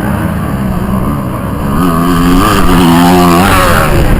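Kawasaki KXF450 motocross bike's single-cylinder four-stroke engine running hard, climbing in pitch about halfway through as it is revved, then easing off near the end.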